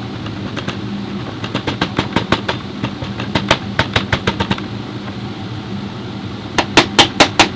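Hammer striking metal: scattered light taps, then from near the end a fast, even run of loud knocks, about five a second, over a steady low hum.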